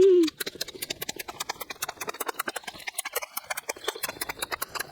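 Close-up eating sounds: someone chewing and smacking on food, a quick run of short wet clicks, several a second.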